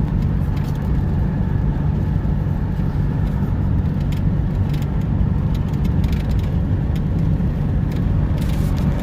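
Cummins 6.7-litre diesel of a Ram 5500 pickup with the full exhaust brake on, holding the loaded truck back on a steep downhill grade: a steady low engine drone heard from inside the cab, mixed with road noise.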